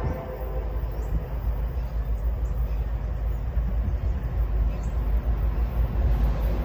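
Steady low rumble of an approaching intermodal freight train led by an NS SD70ACU diesel locomotive.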